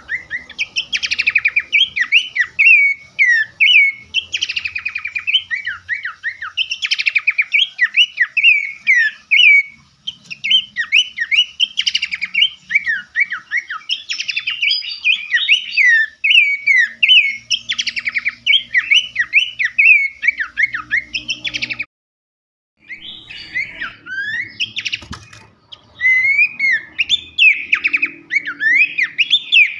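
Songbird masteran recording: a fast, dense run of harsh, sharp chirps, whistled glides and rapid buzzing trills. It breaks off for about a second two-thirds of the way through, then resumes.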